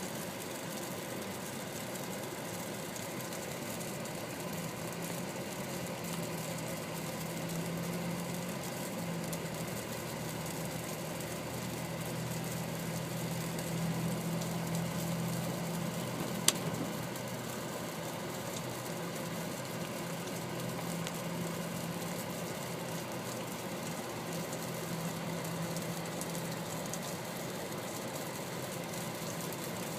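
A steady, low mechanical hum like an idling engine, with a single sharp click about halfway through.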